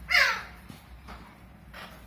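Alexandrine parakeet giving one loud, harsh squawk that falls in pitch, followed by a fainter short call near the end.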